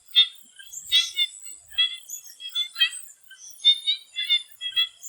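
Swamp frogs calling in a chorus: short, rattly pitched calls repeating about once or twice a second from several animals, over a steady high-pitched insect drone.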